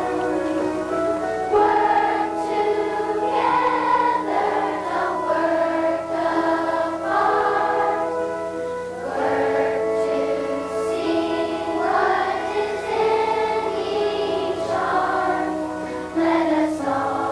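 Children's choir singing a song together, many young voices in unison.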